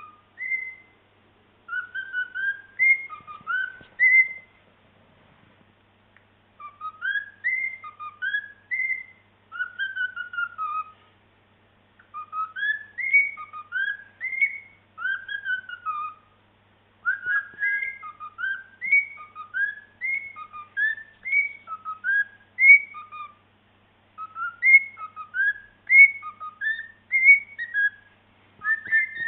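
Cockatiel whistling a song: phrases of short rising and falling whistled notes, repeated in bursts with brief pauses between them.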